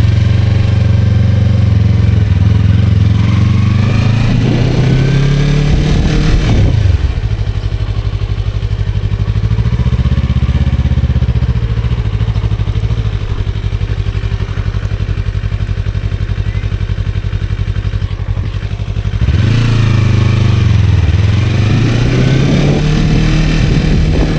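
Motorcycle engine running close by, rising in pitch as it accelerates about four to seven seconds in, then dropping sharply and running steadily. Near the end the engine note dips and climbs again as the bike gets going once more.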